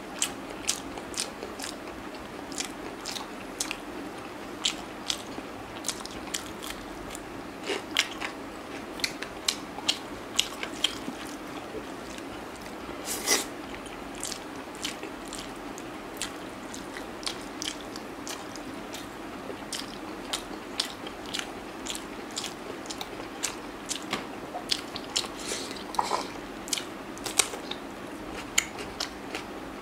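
Close-miked eating: chewing and biting spicy chicken on the bone and rice, with many short wet mouth clicks and crunches scattered irregularly throughout, over a steady low hiss.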